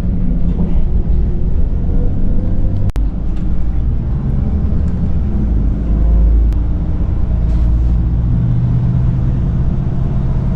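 Steady low rumble and engine hum of a vehicle under way.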